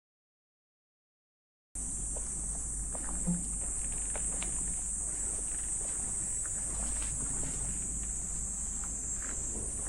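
After nearly two seconds of dead silence, a dense, steady, high-pitched chorus of summer insects, with faint footsteps of someone walking beneath it.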